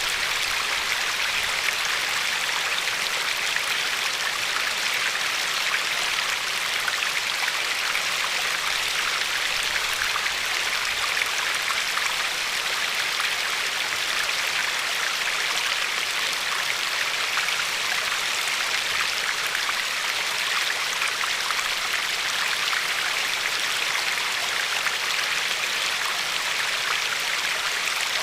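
River water flowing and lapping along a pebbly shore: a steady, even rush of water with fine splashing throughout.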